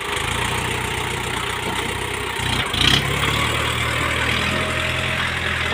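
Diesel engine of heavy earthmoving machinery running steadily at low revs, with a brief loud burst of noise about halfway through.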